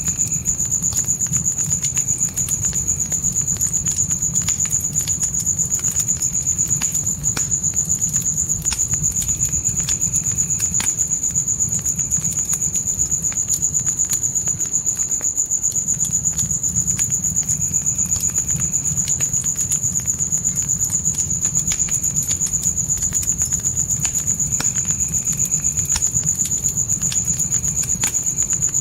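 Crickets chirping in a continuous high, steady trill, over the scattered crackles and pops of a wood fire and a low rumble of burning.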